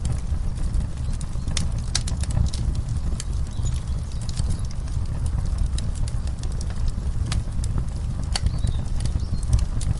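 Fireplace wood fire crackling, with sharp irregular pops and snaps over a steady low rumble.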